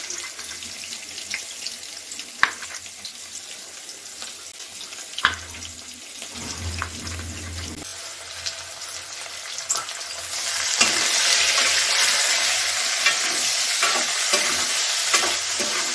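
Hot oil sizzling in a kadhai, with a few sharp knife taps on a wooden chopping board early on. About two-thirds of the way through, chopped tomatoes go into the oil with the onions and the sizzle turns much louder and denser.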